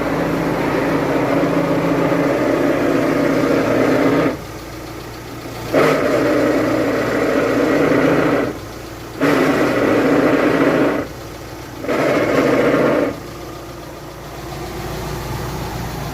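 Volkswagen Amarok idling, with a loud noise that comes on while the clutch pedal is pressed and drops away when it is released, four times: a long stretch, then three shorter ones. The noise is the sign of a worn clutch pilot bearing in the end of the crankshaft.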